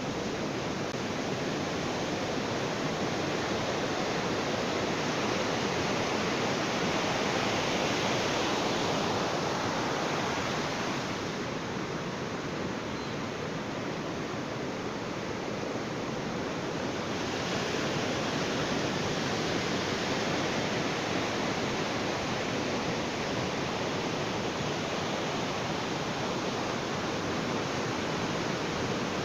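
Ocean waves washing onto a beach, a steady rushing surf that swells and eases slowly.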